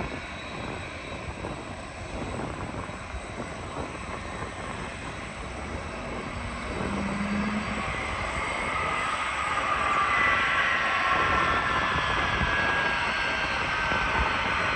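Jet airliner on landing approach, its engines a steady rushing noise that grows louder about halfway through, with a whine that slides slowly down in pitch as it passes.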